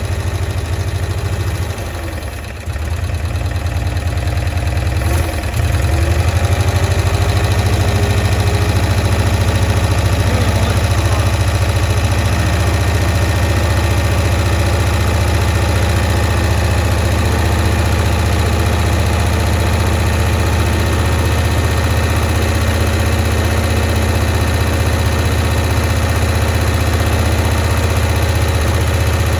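1965 Cushman Truckster's engine running steadily after a cold start from long storage. It dips briefly about two seconds in, then runs louder and steady from about five seconds in.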